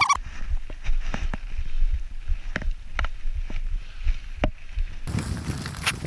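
Mountain bike ridden over a dirt trail, heard through a helmet-mounted action camera: a low rumble on the microphone with scattered clicks and knocks from the bike. About five seconds in it turns louder and rougher.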